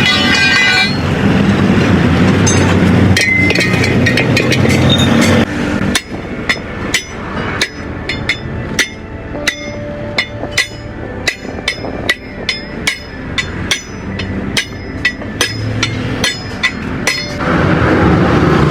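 A long, even series of ringing hammer blows on metal, about two a second, as in working a blown truck tyre off or onto its steel rim. Before that, for about the first five seconds, there is loud steady road and vehicle noise, with a short horn-like tone at the very start.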